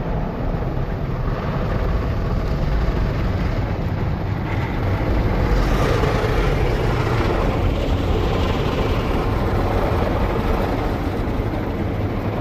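WashTec SoftLine 2 tunnel car wash working over a car: cloth Softex brushes and water spray making a steady swishing wash noise, hissier from about five seconds in.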